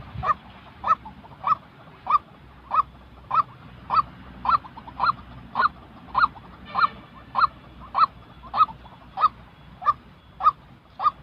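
White-breasted waterhen giving its monotonous repeated call: one short note at an even pitch about every 0.6 s, a little under two a second.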